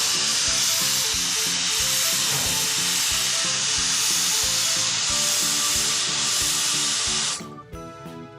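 Cartoon sound effect of a fire hose spraying water on a fire: a loud, steady hiss over background music with a regular beat. The hiss cuts off suddenly about seven and a half seconds in, as the fire goes out, leaving only the music.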